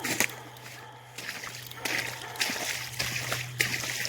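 Footsteps splashing and squelching through wet ground, roughly a step every half second, over a steady low hum.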